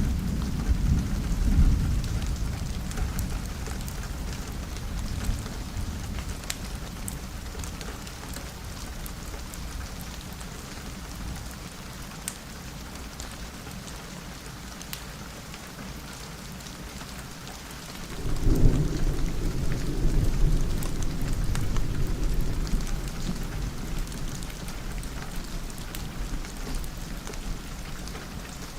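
Steady rain with thunder. A low rumble fades out over the first few seconds, then a sudden thunderclap about two-thirds of the way through rolls on for several seconds.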